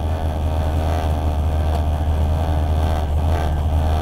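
Nissan Skyline R32's RB25 turbocharged straight-six idling steadily, heard from inside the cabin as a deep, even drone.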